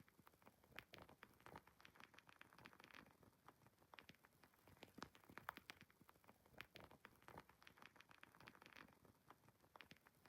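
Wood fire crackling: a dense, irregular run of small pops and snaps over a soft hiss, played quietly.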